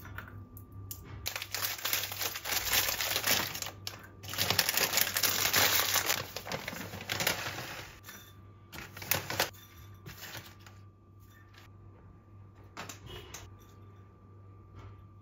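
Rustling and clicking of small objects being handled. It is densest in the first half, then thins to occasional clicks and knocks, over a faint steady hum.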